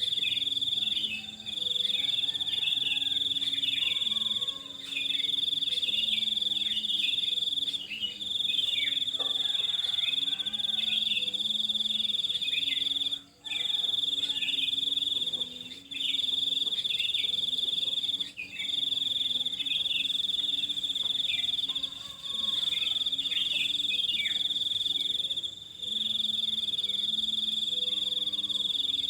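A continuous high, shrill insect trill, like crickets or cicadas, that stops briefly every three to four seconds and starts again, with short falling bird chirps scattered underneath.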